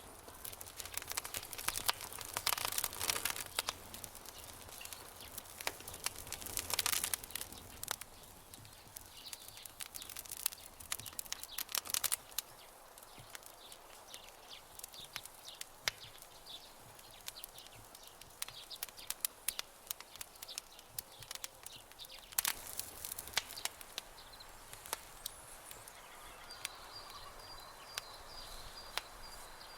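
Wood campfire crackling and popping, with sharp irregular snaps, thickest in the first half, over a faint steady hiss. A faint high-pitched trill sounds near the end.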